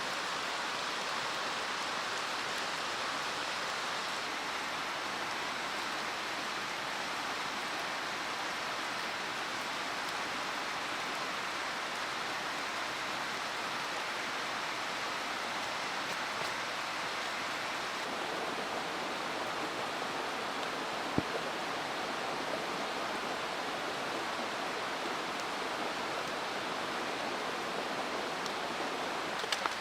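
Mountain stream flowing in a steady rush, with one sharp click about two-thirds of the way through.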